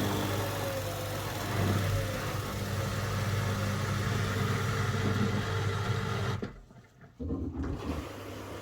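Front-loading washing machine running with its covers off: the drum motor and belt hum steadily, then cut out about six and a half seconds in as a wash stage ends. A quieter low hum returns a second later.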